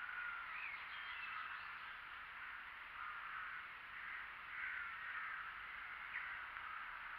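A chorus of birds calling, with short chirps scattered over a steady background of birdsong.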